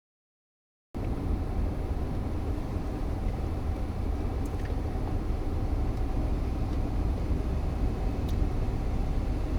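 About a second of dead silence at an edit, then a steady low rumble with a faint hiss over it, as of a car heard from inside its cabin.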